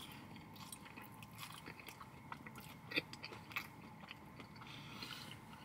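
A person chewing a mouthful of cheese- and bacon-topped fries close to the microphone: faint chewing with scattered soft crunches, the loudest two about three seconds in.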